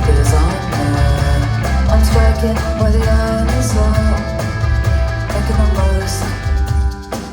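Rock band playing live: a loud, steady bass line with drums and electric guitar.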